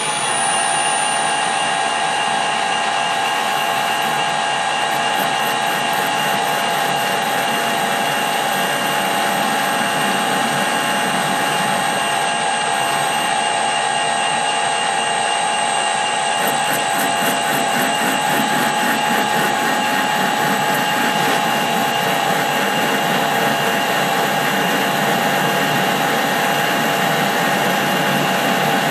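Metal lathe running steadily under power, its motor and gearing giving a steady whine with several held tones, while it machines a tough steel part.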